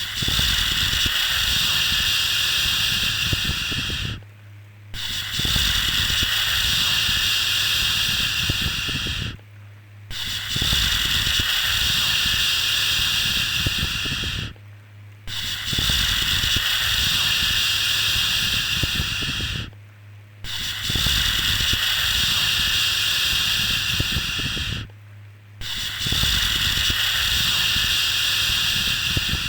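A long 'shhh' shushing sound for soothing a baby, repeated over and over: six shushes of about four and a half seconds each, every one broken off by a short pause, over a faint steady low hum.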